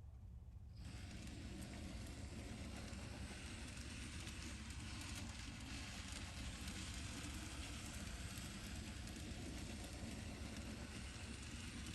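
N scale model train of the Shimotsui Electric Railway running on its track: a faint steady whir and rail noise, which fills out about a second in.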